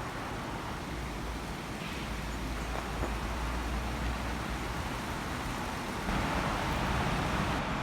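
Steady rain falling in a forest, an even hiss with a low rumble beneath, growing louder about six seconds in.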